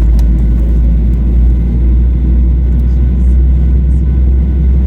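Boeing 737-800 cabin noise on the ground: a steady low rumble from the CFM56 engines at idle and the airframe, with a few faint steady tones above it.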